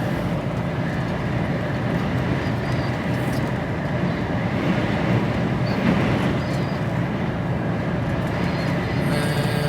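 Steady cab noise inside an HGV lorry on the move: the diesel engine's low drone with road noise, unchanging throughout.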